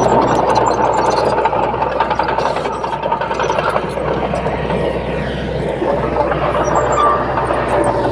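Komatsu D31P bulldozer running under load, with a steady high squeal over the machine noise that gives way to a lower squeal about six seconds in.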